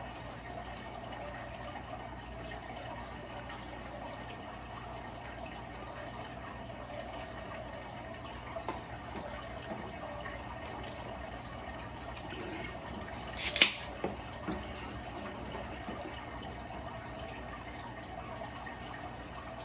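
Steady background noise, with one short, sharp clatter about two-thirds of the way through, followed by a couple of faint clicks.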